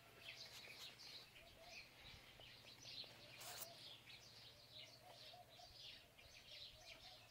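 Faint, continuous chirping of many small birds, with one brief rustle about three and a half seconds in.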